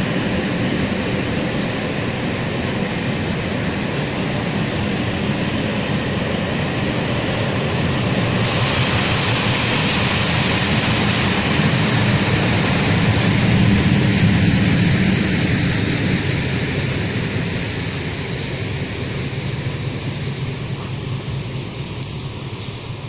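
Long freight train of wagons rolling past, a steady rumble of wheels on rails that swells to a peak about halfway through and then fades as the last wagons move away.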